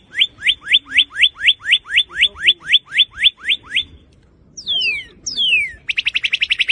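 Northern cardinal singing: a quick run of about sixteen down-slurred whistles, some four a second, then after a short pause two longer falling slurs and a fast trill near the end.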